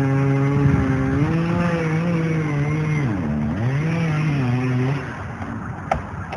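Chainsaw running at high revs, its pitch dipping sharply about three seconds in and picking back up, then falling away about five seconds in to quieter noise with a few clicks.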